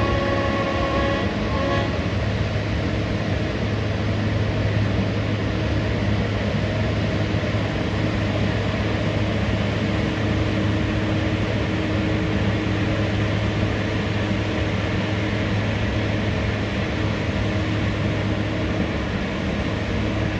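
Mount Washington Cog Railway train running with a steady rumble and a low hum. A held, pitched horn note sounds at the start and cuts off about two seconds in.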